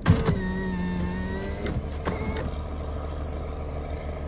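A vehicle engine running steadily. Right at the start there is a clunk, then a mechanical whine lasting about a second and a half, and a few clicks with a brief high whine about two seconds in.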